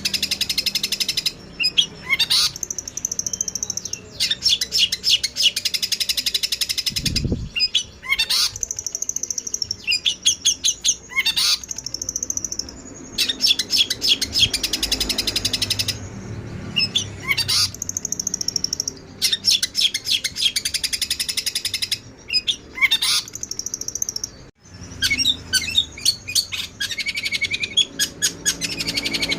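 Eurasian tree sparrows (burung gereja) fighting, giving fast, harsh chattering and chirping in dense runs of a few seconds with short breaks between them. A brief low thump comes about seven seconds in.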